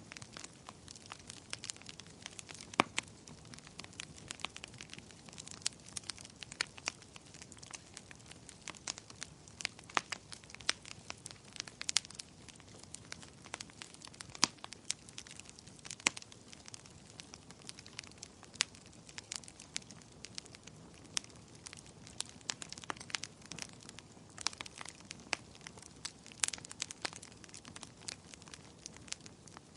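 Fire crackling in a fireplace: irregular sharp pops and snaps, often several a second, over a soft steady hiss.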